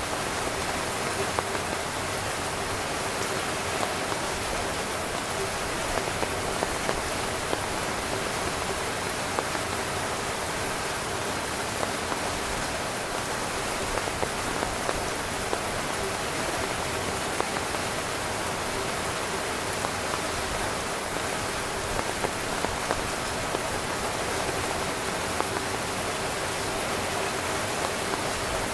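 Torrential rain falling on a camping tent: a steady, dense hiss of rain with many individual drops striking the fabric.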